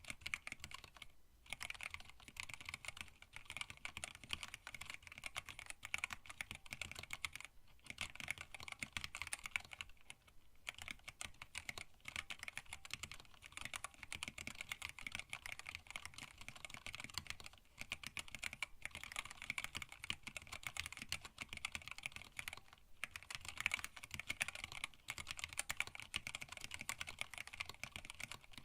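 Fast, continuous typing on a hand-wired split mechanical keyboard with Tealios linear switches, blank PBT keycaps and a stacked acrylic case, pausing briefly a few times.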